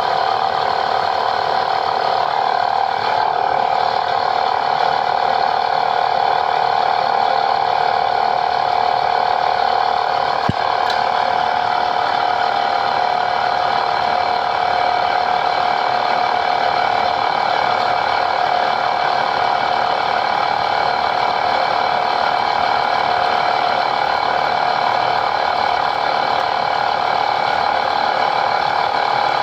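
A machine running steadily: a constant rattling buzz with a steady whine that does not change, and one brief click about ten and a half seconds in.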